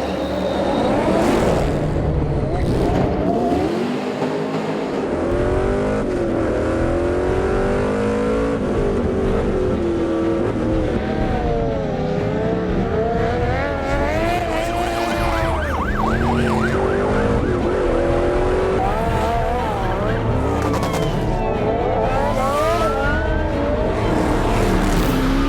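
Several vehicle engines revving hard, rising and falling in pitch through gear changes, with tyres squealing in a drift.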